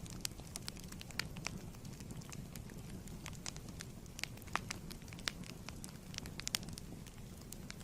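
Wood fire burning in a fireplace: a steady low rumble with irregular crackles and sharp pops, a few louder pops in the middle.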